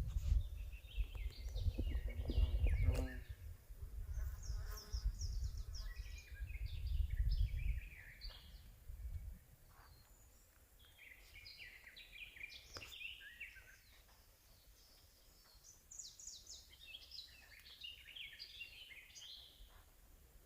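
Forest songbirds singing, several short phrases of quick notes that step down in pitch, repeated throughout. A low rumble on the microphone covers the first eight seconds and then stops.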